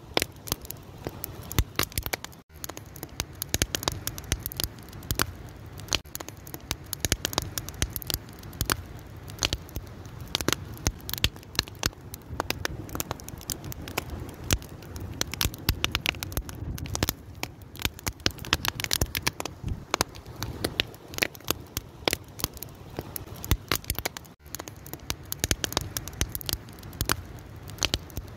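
Fire crackling: a dense, irregular stream of sharp pops and snaps over a steady low background noise.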